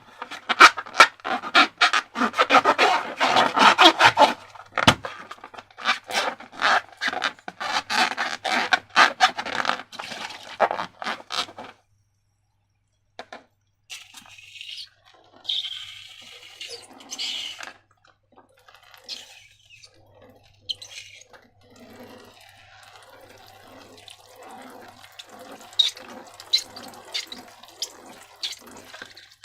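Wet slime being worked by hand, a dense run of sticky squelching and crackling for about twelve seconds. After a brief pause come softer, scattered squishes.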